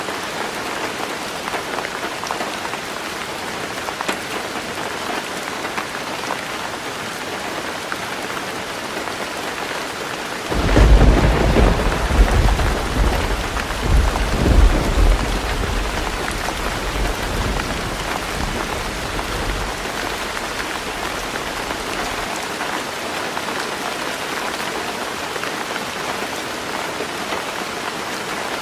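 Heavy rain falling steadily on a roof. About a third of the way in, a deep roll of thunder breaks in, swells several times over a few seconds, then rumbles away and fades.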